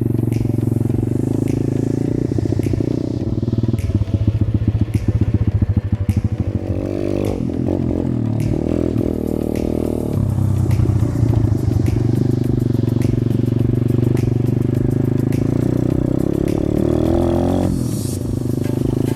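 Small single-cylinder pit bike engine running, revved up about seven seconds in and again near the end.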